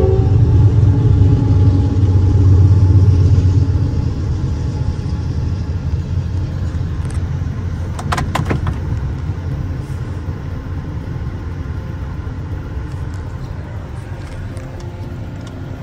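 Diesel locomotives of a coal train passing close by with a deep engine rumble, fading after the first few seconds into the steady rolling noise of coal hopper cars going by. A quick cluster of sharp clicks comes about eight seconds in.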